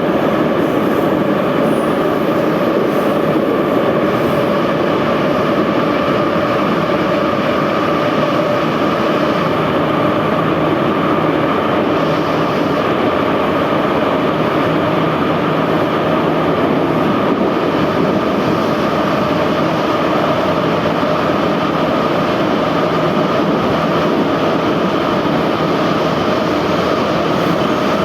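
Moscow Metro 81-717/714 train running at speed through a tunnel, heard from inside the car: a steady rail rumble with a constant whine from the traction motors and gearing.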